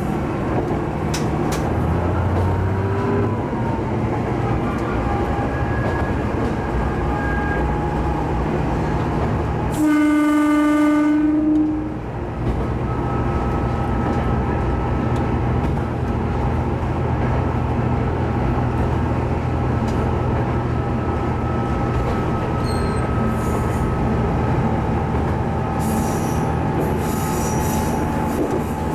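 Hitachinaka Seaside Railway diesel railcar running along the line, with engine and wheel-on-rail noise, sounding its horn once for about two seconds around the middle. Brief high-pitched wheel squeals come near the end.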